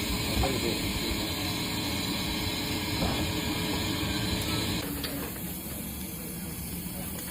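Railway locomotive running, a steady mechanical hum with hiss that eases off somewhat about five seconds in.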